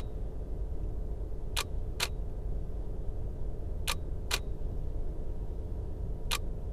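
Nikon DSLR shutter firing three slow-shutter exposures in a row, each a pair of clicks about half a second apart as the shutter opens and closes. A steady low rumble of the car runs underneath.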